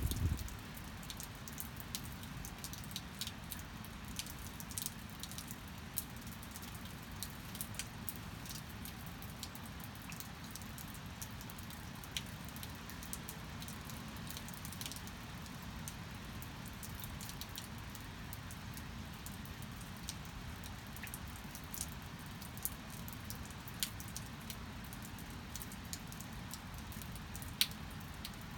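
Steady rain falling, with a low even wash and many separate drops ticking sharply at irregular moments.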